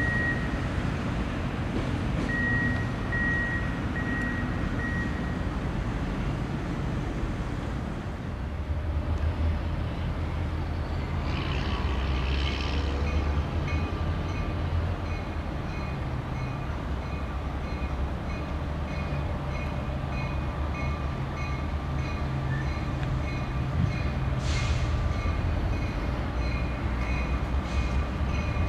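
A freight train rolling past. After a cut, a CSX EMD GP40-2 diesel locomotive with its 16-cylinder 645 engine approaches at low speed hauling a short train. A low engine rumble builds from about nine seconds in, with steady high tones over it.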